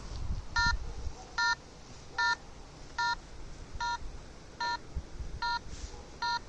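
Electronic beeping from a ghost-hunting detector: a short beep, each one a chord of several tones, repeating steadily about every 0.8 seconds, eight times. A faint low rumble lies underneath.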